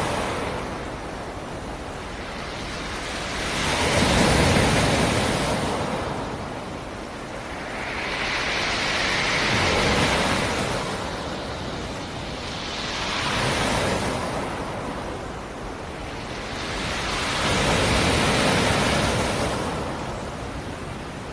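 Black Sea surf: waves washing onto the shore in four slow surges, each swelling to a rushing peak and then fading back.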